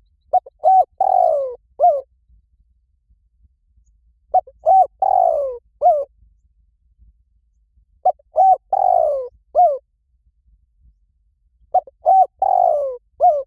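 Spotted dove cooing, four phrases about four seconds apart. Each phrase is a couple of short coos, a longer falling coo, then one short closing coo. The call is used as a lure to draw doves in.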